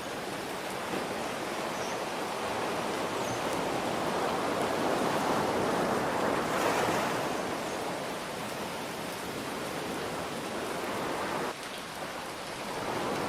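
Steady rain hiss mixed with ocean surf. A wave swells up about halfway through and washes back out, the sound drops briefly near the end, and another wave builds.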